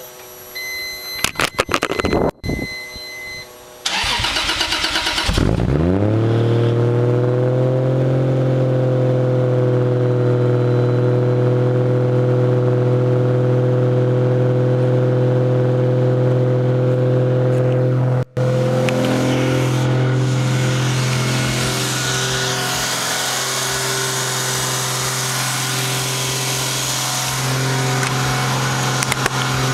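A few short electronic tones, then the single-turbo 2JZ-GTE straight-six in a Lexus IS300 cranks briefly and catches on a cold start about four seconds in. It flares up and drops back, then settles into a steady fast idle.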